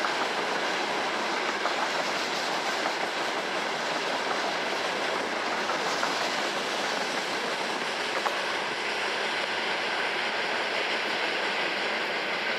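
Freight train wagons rolling past on the track: a steady rumble and hiss of steel wheels on the rails, with a few sharp clicks from the wheels going over rail joints.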